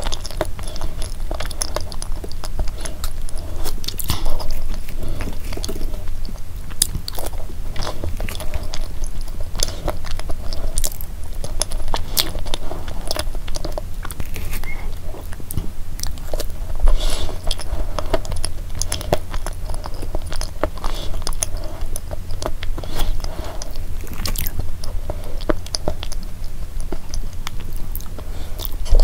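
Close-miked chewing and mouth sounds of a person eating a layered chocolate dessert from a spoon, with many small sharp clicks. Another spoonful goes in near the end.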